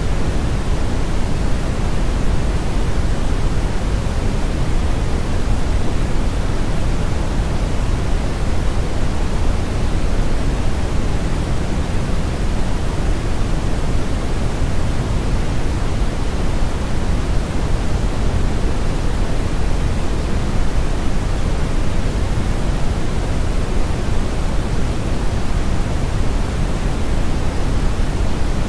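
Brown noise: a steady, unbroken hiss, deep and rumbly with most of its energy in the low end and much less in the treble.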